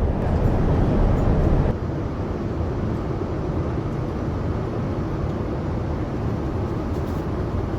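Steady cabin noise inside a Boeing 787-9 airliner in flight: an even low rush of air and engine noise. The level drops slightly about two seconds in.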